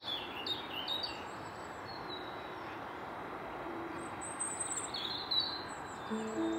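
Small birds chirping in short falling calls, a few in the first second and more about five seconds in, over a steady even hiss of outdoor background noise. Soft music with held notes comes in near the end.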